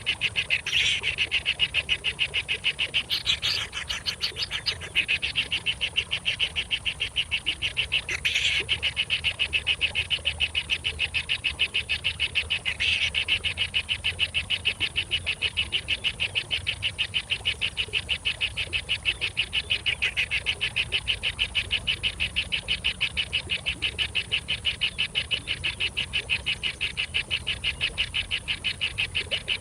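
Nestling birds begging with a rapid, steady run of high chirps, several a second, with a few louder calls breaking in now and then.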